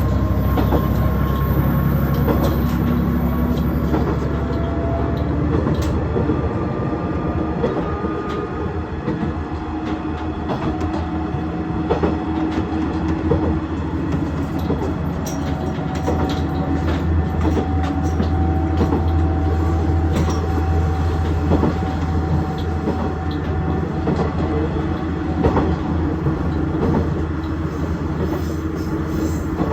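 KiHa 110 series diesel railcar running along the line, heard from inside the car: a steady low engine drone under frequent clicks of the wheels over the rail joints.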